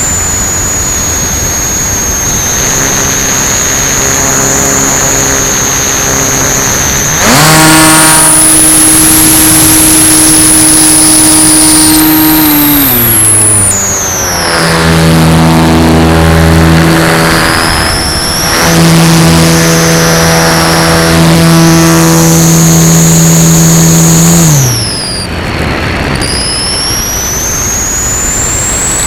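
Cessna 170's engine and propeller running in flight, loud over steady rushing noise. The engine note rises as power comes up about seven seconds in, sinks back a few seconds later, rises again, and drops off near the end, with a high whine above it that shifts in pitch.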